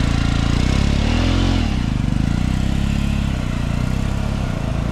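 Motorcycle engine running near idle, revved up and back down once about a second in.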